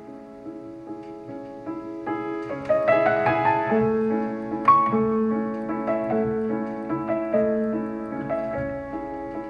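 Solo piano music played back through Visaton FR10 4-inch full-range drivers in small bass-reflex cabinets and picked up by microphone. The notes are sustained, with a quicker run of notes about two to four seconds in and a bright high note just before the middle.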